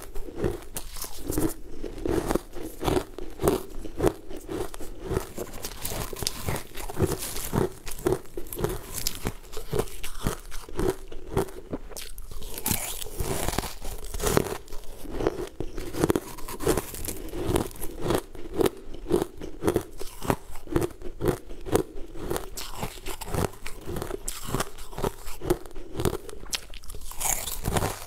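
A person chewing and crunching mouthfuls of a crumbly sweet food, a continuous run of short crisp crunches.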